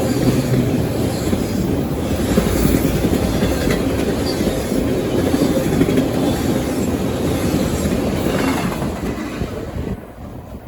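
CSX freight train's cars rolling past at speed, a steady loud rumble with occasional clicks. The sound falls off sharply about nine to ten seconds in.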